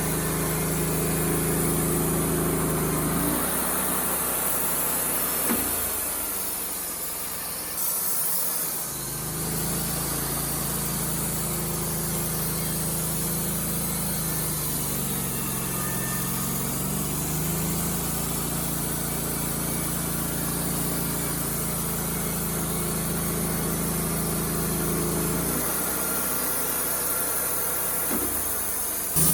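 Wood-Mizer LT35HD sawmill's engine running steadily as the band saw cuts a red oak log. Its pitch sags and recovers about halfway through, and the engine's note changes a few seconds in and again near the end.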